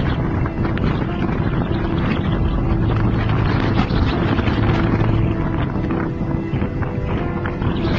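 A steady engine drone, likely a vessel's engine at sea, with wind noise on the microphone.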